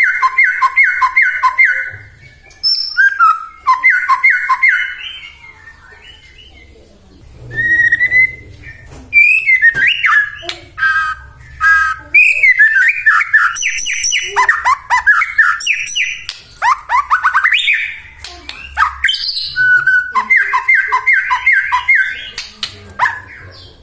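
White-rumped shama (murai batu) singing in loud phrases: fast runs of repeated notes, whistled glides and harsher calls, with short pauses between phrases.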